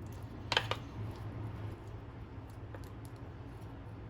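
A spoon knocking against a saucepan twice in quick succession about half a second in, then a faint click later, while peas cook in sugar syrup. A steady low hum runs underneath.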